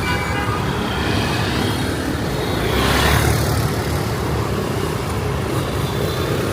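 Street traffic noise: a steady rumble of engines and tyres, with one vehicle passing close about three seconds in.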